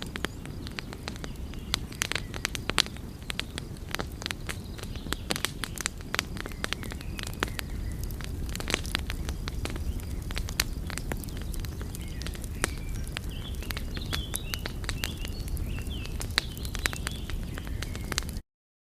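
Wood fire crackling: frequent sharp pops and snaps over a steady low rumble of burning flames. The sound breaks off briefly near the end.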